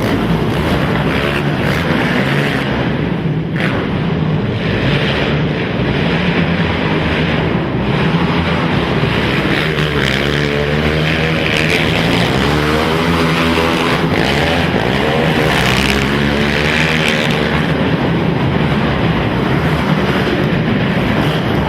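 Several racing quad (ATV) engines running hard, revving up and down as the riders accelerate and shift, with the loudest rising and falling revs about halfway through.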